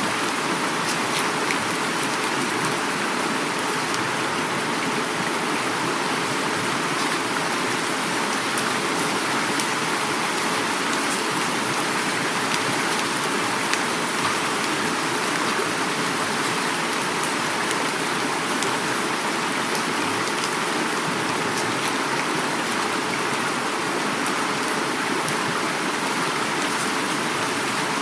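Heavy rain falling steadily, mixed with flowing river water, making an even, unbroken rush with faint scattered drop ticks.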